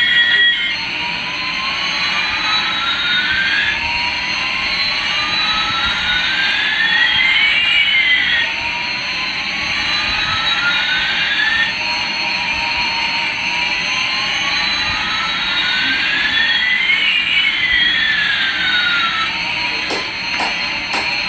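Toy Airbus A380's electronic jet-engine sound effect playing through a small speaker: a steady hissing rush with whining tones that slowly rise and fall, repeating every few seconds. A few sharp clicks come near the end.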